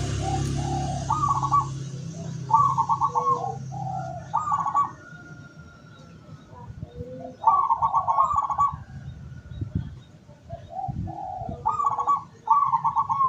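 Local zebra dove (perkutut) cooing: repeated phrases of quick, trilled, bubbling coos, in three bursts with pauses between them. A low hum underneath fades out about a third of the way in.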